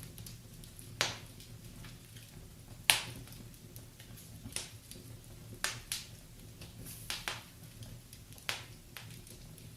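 Wood fire in a fireplace crackling: irregular sharp pops and snaps, about one a second, the loudest about three seconds in, over a low steady hiss.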